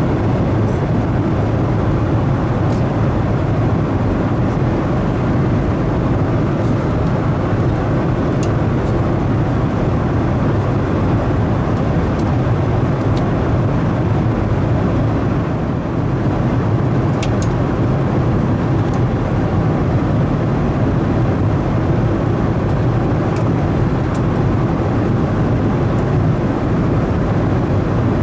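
Steady cabin noise of a Boeing 737-900ER in flight: the even rush of airflow and the CFM56 engines heard from inside the cabin, with a few faint clicks.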